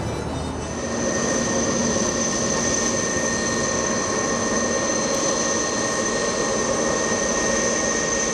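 Jet aircraft engines running steadily, a constant high whine over a broad rush. It swells about a second in, then holds.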